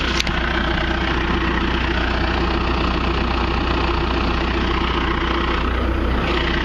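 John Deere 650J crawler dozer's diesel engine idling steadily, a constant low drone with a mechanical hum above it.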